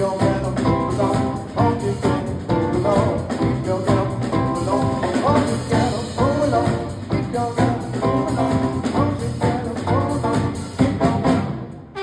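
Live band music with a drum kit, played loud and steady, with a short drop in level just before the end.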